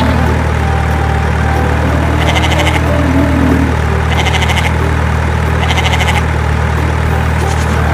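Steady low engine hum of a truck, with a short bleating call repeating about every two seconds over it.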